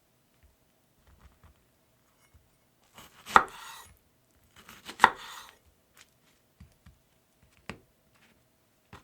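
Kitchen knife cutting food on a cutting board: two sharp knocks about three and five seconds in, each followed by a short scrape, then a few lighter taps.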